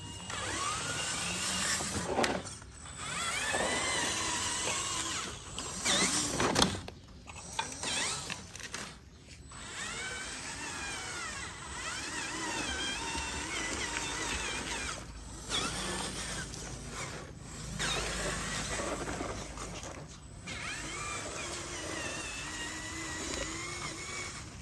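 Electric motor and gearbox whine of a radio-controlled model truck, rising and falling in pitch as it speeds up and slows, with several brief cut-offs.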